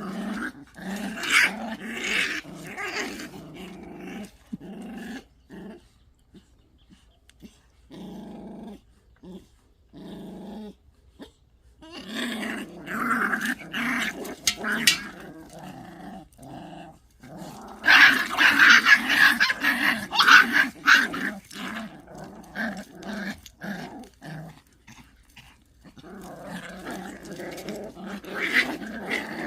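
Pungsan puppies growling at each other in a dominance scuffle, in irregular bouts with short pauses; the loudest, most intense stretch comes about two-thirds of the way through.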